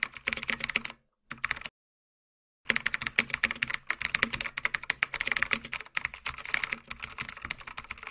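Rapid, dense clicking like typing on a keyboard, in three runs: a short first run, a brief burst about a second and a quarter in, and a long run from about two and a half seconds in to near the end.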